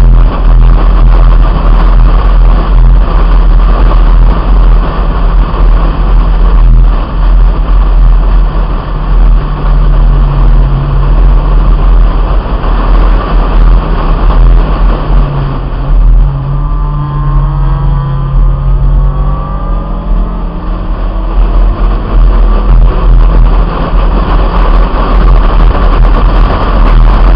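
Heavy wind buffeting on a roof-mounted camera over a 1997 Honda Integra's engine, driven hard on a track lap. About two-thirds of the way through the wind noise eases and the engine is heard climbing in pitch for a few seconds as it accelerates.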